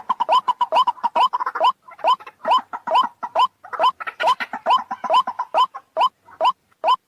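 White-breasted waterhen (ruak-ruak) calling: a rapid series of short notes, each rising in pitch, at first crowded and overlapping, then thinning near the end to single notes a little over two a second.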